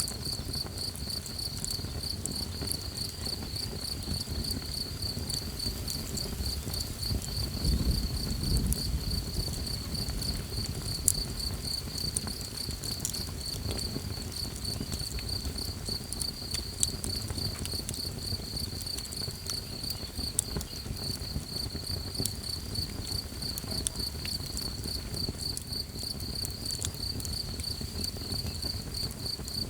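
Night insects trilling steadily in a fast, even pulse, with scattered small crackles and pops from a campfire. A low rumble swells briefly about eight seconds in.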